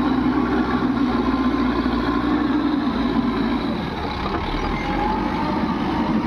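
Heavy diesel engines of a JCB backhoe loader and tractors running steadily, easing off a little about halfway through.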